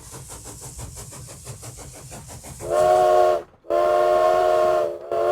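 Steam locomotive chugging in quick, even puffs, about seven a second, then its chime whistle blowing: two long blasts and a third starting near the end.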